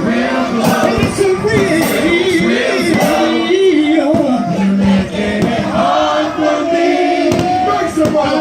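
Live concert music played loud through a stadium PA, with several voices singing a wavering melody and the crowd audible underneath.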